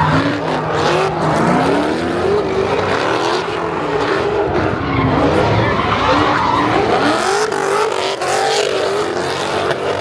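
A car engine revving hard with tires spinning and squealing in a burnout. The engine's pitch rises and falls again and again.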